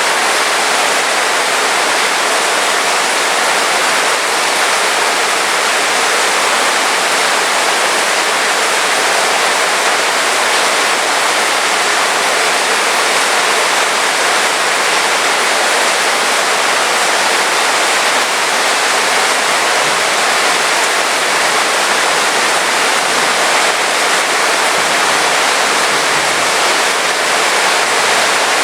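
Heavy rain falling steadily, a dense even hiss with no drops or thunder standing out.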